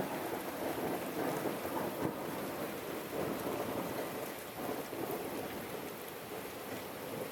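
Steady rain falling, a dense even hiss with small sharp drop ticks scattered through it.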